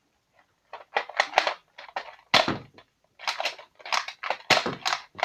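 A rapid, irregular series of sharp clicks and crackles, starting about a second in and continuing to the end.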